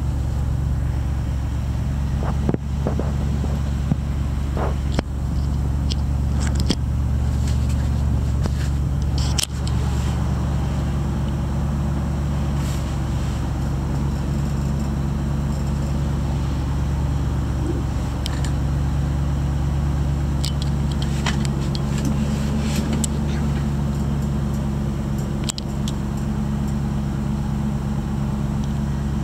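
1995 Land Rover Defender 90's engine idling steadily on a cold start, heard from inside the cabin, with a few light clicks over it.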